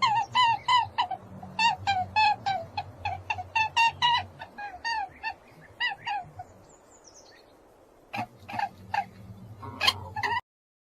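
A farm bird calling: a rapid run of short calls, each dropping in pitch, then after a lull a few more calls near the end, cutting off abruptly.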